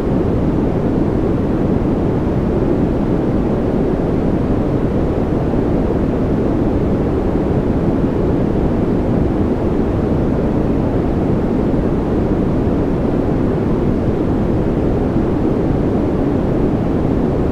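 Steady, unchanging sleep noise sold as white noise, a deep, even rushing hiss with most of its weight in the low end.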